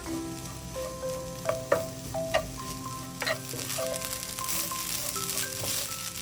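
Food sizzling as it fries in a hot pan, with a few sharp clicks, over background music with a slow melody.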